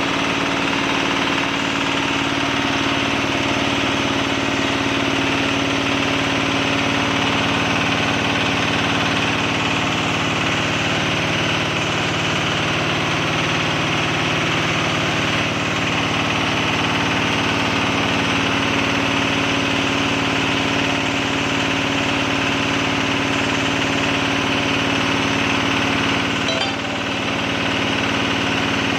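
Kubota diesel engine driving a Hicom air compressor, running steadily. The level dips briefly near the end.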